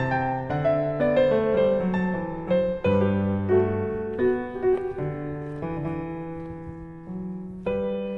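Background piano music: a slow melody over held chords, each note struck and then fading.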